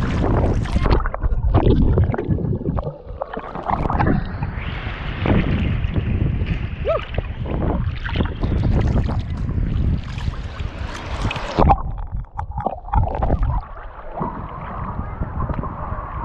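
Wind buffeting the microphone over ocean water washing and surging, an uneven rumbling noise that rises and falls.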